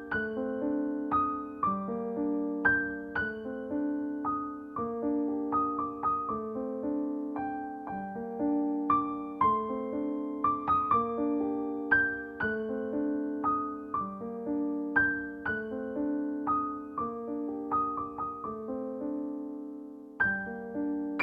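Background piano music: a gentle, slow melody of struck notes over a repeating accompaniment, with a short break and a new phrase starting near the end.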